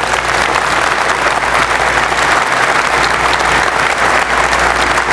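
Audience applauding steadily, a large crowd clapping.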